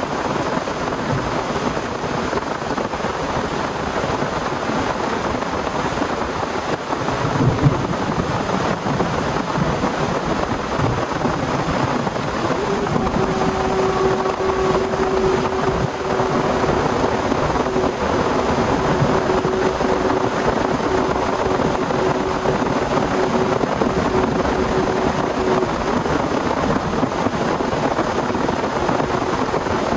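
Heavy rain and wind making a steady dense rush. A dull thump comes about seven and a half seconds in, and a faint steady hum-like tone sounds through the middle.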